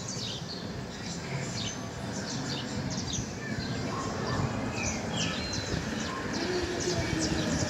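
Many small birds chirping together, a dense overlapping chorus of short, quick downward-sweeping chirps, over a steady low background noise.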